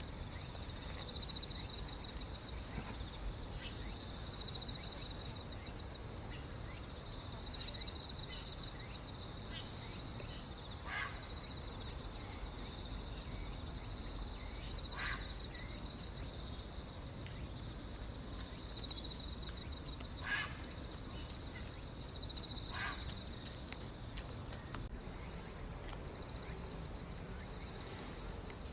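Steady high-pitched chorus of insects such as crickets, broken by four short bird chirps.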